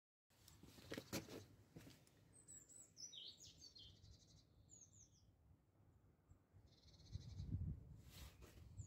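Faint bird chirps and short trills in the background, with a couple of dull knocks and a low rumble near the end.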